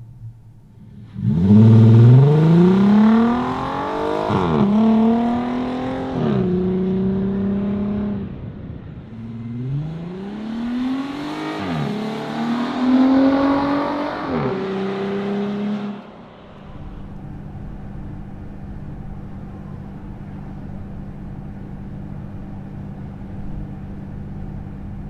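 VW Atlas 3.6 VR6 engine with an aftermarket catback exhaust accelerating hard twice. Each time the pitch climbs, then drops briefly at the upshifts. About two-thirds of the way through it settles into a quieter, steady low exhaust drone at highway cruising speed.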